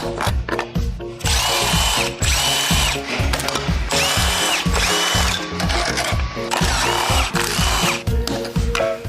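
A power tool, drill-like, runs in six short bursts, in three pairs, each with a whine that spins up and down. A steady music beat plays under it.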